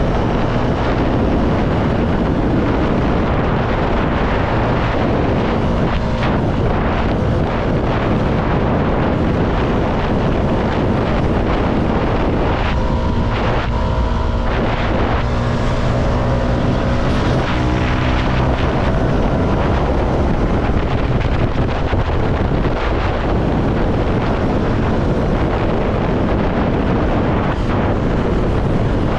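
CFMoto motorcycle engine running steadily at road speed under wind rush on the microphone. Between about twelve and eighteen seconds in, a set of higher tones shifts in pitch and then fades.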